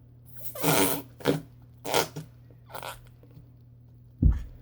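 Flarp noise putty being squeezed in its tub, letting out several short airy, fart-like squelches, followed by a loud low thump near the end.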